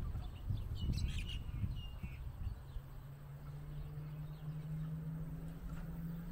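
Small birds chirping a few times about a second in, over a low rumble; from about halfway a steady low drone sets in and holds.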